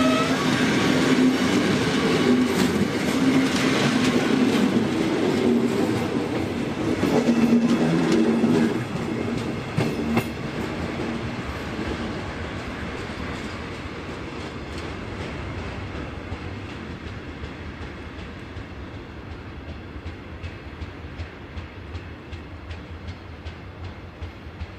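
Train of passenger coaches rolling past, wheels clattering over the rail joints; the clatter is loudest for the first nine seconds or so, then fades steadily as the train draws away, the rhythmic wheel clicks still audible near the end.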